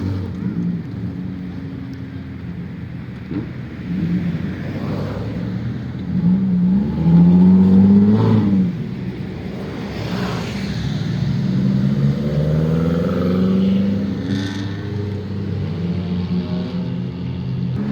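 Cars driving out past one after another, their engines revving up and easing off, the loudest rev about eight seconds in.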